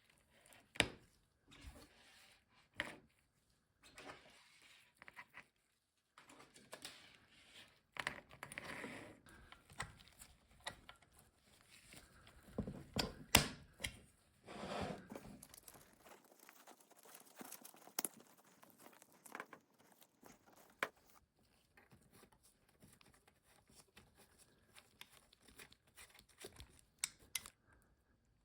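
Hands at work on small electronics wiring: scattered clicks and taps with short bouts of rustling and scraping, busiest in the first half and sparser, with single clicks, in the second half.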